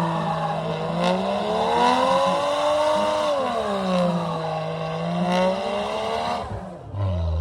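A car engine revved repeatedly, its pitch rising and falling in slow swells. Near the end it drops back low and then climbs again.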